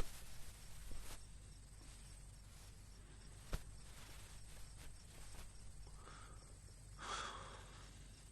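Faint night ambience with a steady high chirring of crickets. A few sharp clicks sound, the loudest about three and a half seconds in, and there is a short rustle about seven seconds in.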